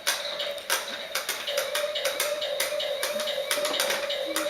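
Toy Caterpillar truck running: a steady, slightly wavering whine with a rapid, irregular run of hard plastic clicks and taps.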